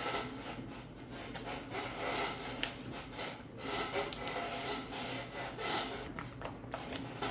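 Hands kneading and working homemade slime, making irregular rubbing noises with a few small clicks.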